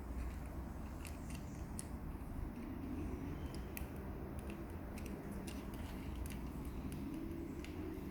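Scattered light clicks and ticks of handling over a steady low rumble of background noise.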